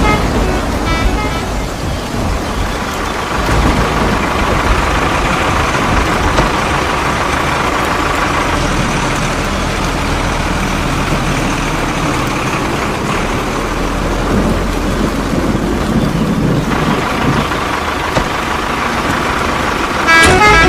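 Truck engine running steadily, with a low rumble. A horn toots a quick run of repeated pitched notes in the first second and again near the end.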